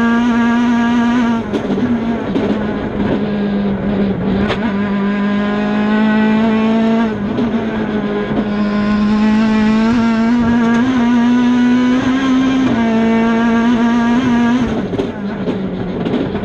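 Ford Fiesta rally car's engine heard from inside the cabin, held at high revs at a steady pitch with brief dips a few times as the driver lifts or changes gear. A few sharp knocks sound through it.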